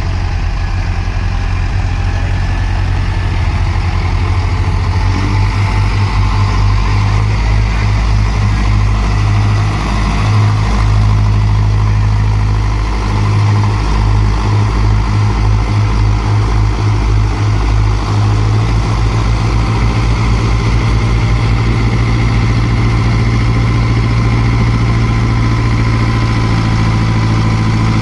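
Mahindra Arjun Novo tractor's direct-injection diesel engine running steadily with a low, even engine note and no clear revving.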